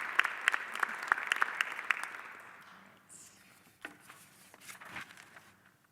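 Audience applauding, many hands clapping, dying away over the first three seconds; then a couple of stray knocks and claps.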